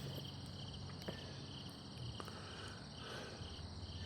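Faint insects chirping in steady trains of fast, evenly repeated pulses, with a couple of soft clicks.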